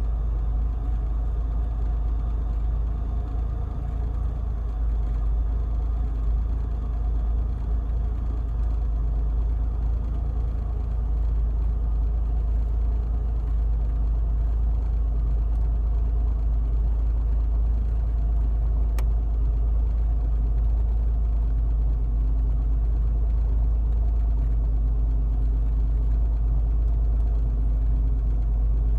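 Pontiac Bonneville SSEi's supercharged 3.8-litre V6 running steadily, with an odd engine noise that the owner suspects could be rod knock.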